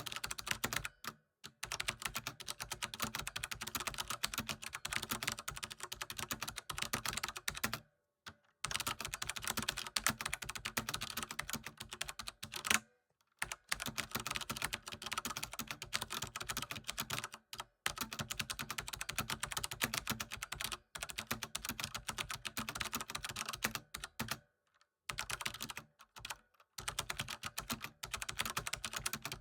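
Computer keyboard being typed on in fast, continuous runs of key clicks, broken by a few brief pauses.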